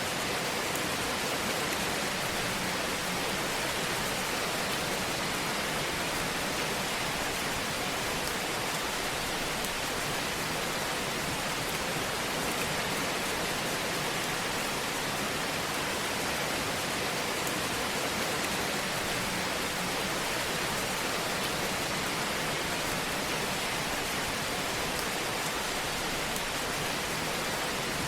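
Fireplace fire sound: a steady, even hiss like rain or static, with no loud pops or crackles standing out.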